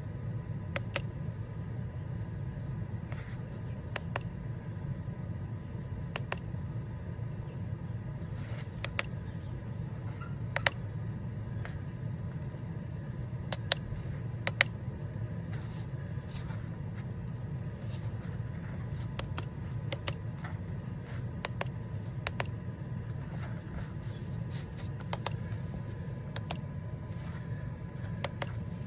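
Steady low hum with short sharp clicks every second or two: buttons being pressed on a handheld OBD2 scan tool as it steps through the car's modules.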